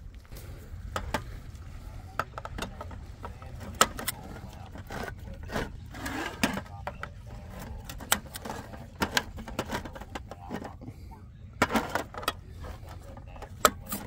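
A run of sharp clicks, knocks and rattles as a tripod is set up and gear handled, with short scraping and rustling between them, over a low steady rumble.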